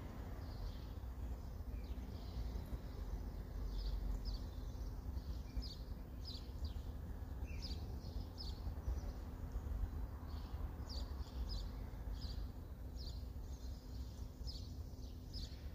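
Small birds chirping outdoors, short high chirps one or two a second, over a steady low rumble of background noise.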